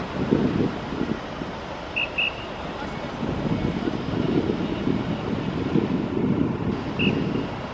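Wind buffeting the microphone in gusts, with two short high beeps about two seconds in and one more near the end.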